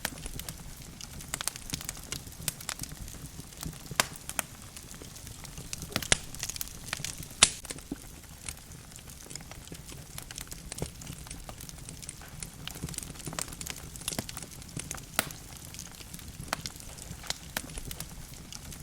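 Logs burning in a wood fireplace: irregular sharp crackles and pops over a low, steady rumble of the flames, with a louder pop about seven and a half seconds in.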